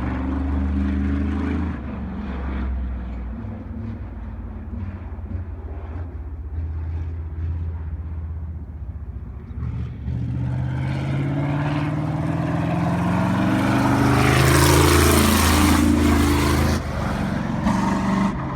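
Sprint car's V8 engine running on the dirt oval under throttle, fading a little and then climbing in pitch as the car accelerates. It gets loudest about fifteen seconds in as the car passes close by, with the pitch sweeping down after the pass.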